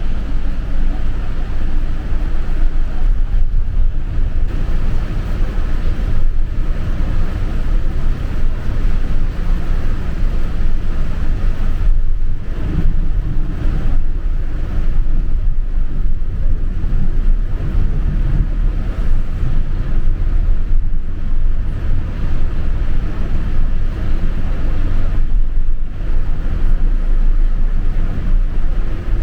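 Steady low rumble of a bus's engine and road noise heard from inside the cabin, with a wash of wind-like noise over it.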